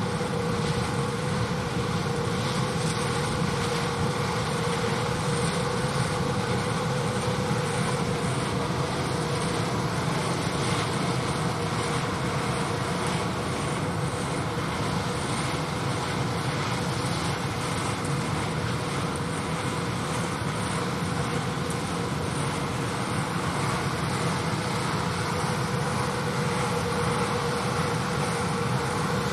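Steady drone of tractors running peanut pickers at harvest, with a steady mid-pitched whine through it.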